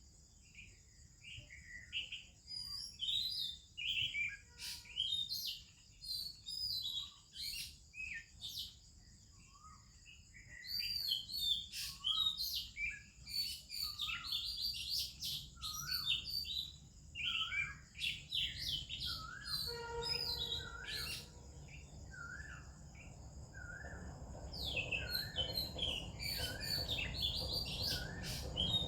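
Several songbirds singing and chirping in varied whistles and warbles, the Oriental magpie-robin among them, over a steady high insect drone. In the second half a short call repeats about once a second.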